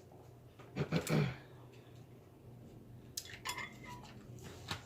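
Cutlery clinking and scraping against dishes while eating, a few light separate clinks, with a brief louder low sound about a second in.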